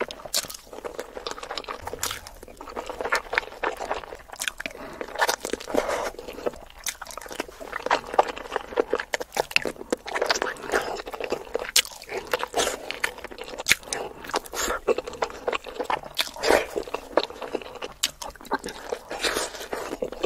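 Close-miked chewing and biting of sauce-dipped, peeled boiled eggs: a steady run of short mouth clicks and smacks.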